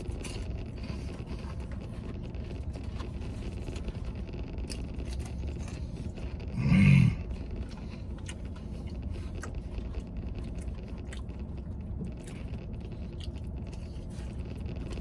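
A man eating animal style fries with his fingers: chewing and small mouth clicks over a steady low hum inside a vehicle cabin. About seven seconds in there is a brief vocal sound.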